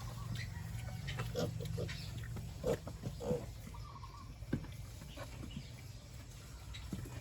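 Pigs grunting in short separate calls, with chickens clucking, over a steady low hum.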